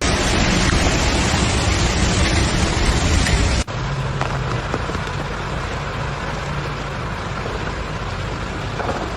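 Loud steady rushing outdoor noise that cuts off abruptly about three and a half seconds in. It gives way to a slightly quieter steady rushing with a faint low hum under it.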